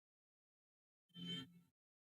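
Near silence, broken about a second in by a brief, faint half-second fragment of a man's voice.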